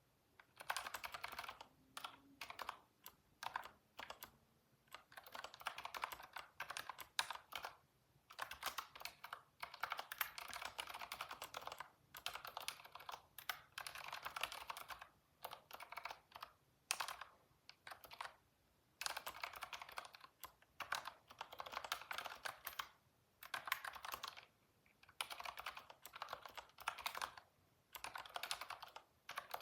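Typing on a computer keyboard: rapid runs of key clicks in bursts of a second or a few seconds, broken by short pauses.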